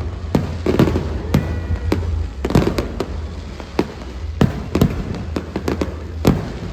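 Aerial fireworks bursting in quick, irregular succession: a string of sharp bangs, several a second at times, the bigger ones trailing off in a short echo.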